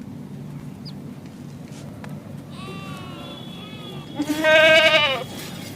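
A goat bleating: a faint call about halfway in, then a loud, quavering bleat near the end.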